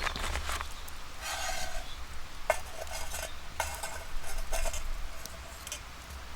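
A metal utensil stirring and scraping in a pan, with several short ringing clinks against the metal, while food sizzles.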